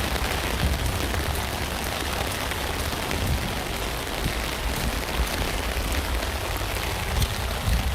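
Steady rain falling on a tent: a dense patter of separate drops over a low rumble.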